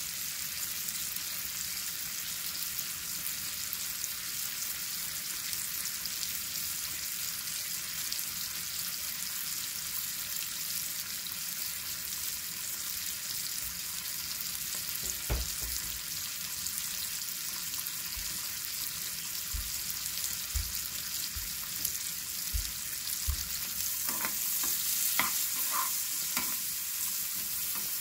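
Diced onions sizzling steadily in butter in a small frying pan. A few soft low thumps come midway, and about four seconds before the end a utensil starts scraping and clicking against the pan as the onions are stirred.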